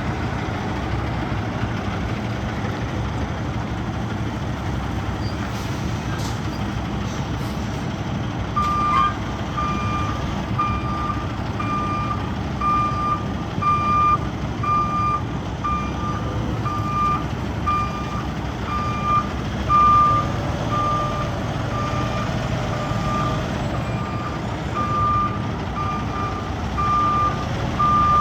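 Truck engine running steadily. About a third of the way in, its reversing alarm starts beeping at a single pitch about once a second as it backs up.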